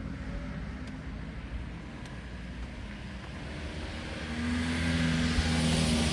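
A car drawing near on the street, its engine hum and tyre noise growing louder over the last two seconds.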